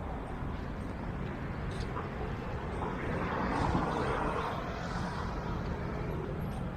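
Street traffic on a busy beach road: a steady rumble of engines and tyres, growing louder about three to five seconds in as a vehicle passes.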